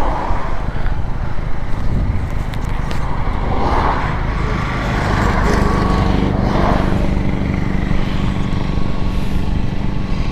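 Benelli motorcycle engine running while riding, with wind noise on the microphone; a steady engine hum settles in about halfway through.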